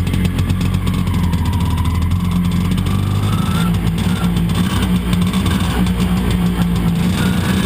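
Vespa Primavera 125 ET3's single-cylinder two-stroke engine running through a Sito exhaust, heard on board while riding; the engine note changes about three seconds in.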